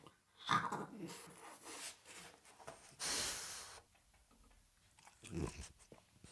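French bulldog eating: irregular close chewing and biting noises, with a louder breathy burst about three seconds in.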